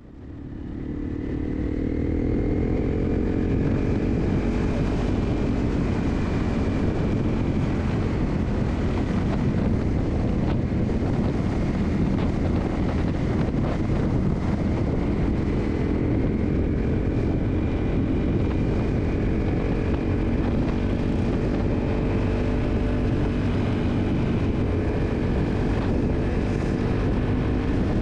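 Motorcycle engine running at a steady cruising speed under a haze of wind and road noise; the sound fades in over the first two seconds.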